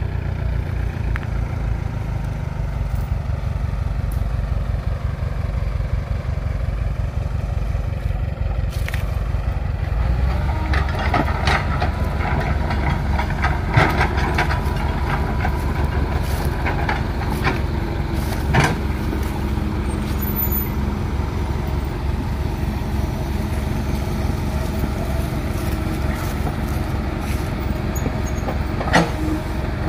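Heavy diesel engine running steadily under work, with a throbbing low note that gets heavier about ten seconds in, and a few short knocks or clanks.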